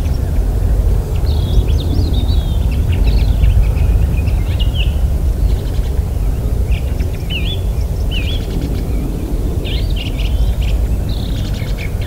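Small birds chirping and calling in short, quick phrases, on and off throughout, over a loud, steady low rumble.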